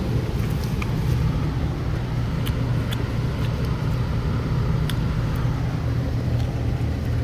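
Steady low hum of a car sitting in an automatic car wash, heard from inside the cabin, with a few faint ticks.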